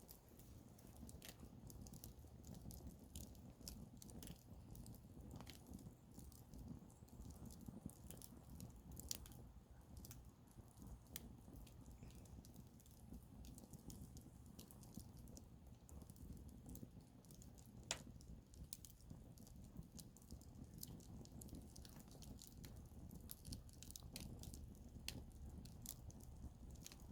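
Wood campfire burning quietly, crackling and popping irregularly, with a couple of sharper pops, over a low steady rumble.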